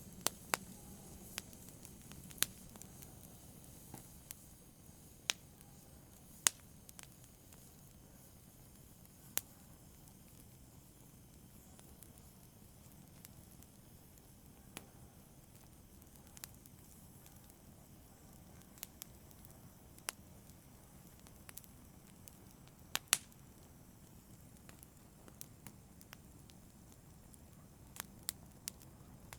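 Open fire crackling: sharp, sparse pops at irregular intervals over a faint low hiss, with one louder double pop about two-thirds of the way through.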